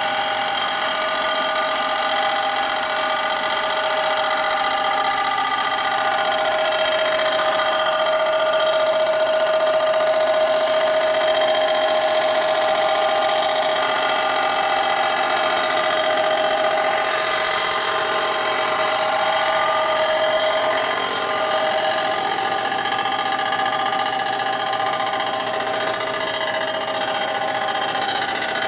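Machine tool running with a cutter facing down the chrome-plated primary cover: a steady, loud whine made of several held tones that shift slightly in pitch as the cut goes on.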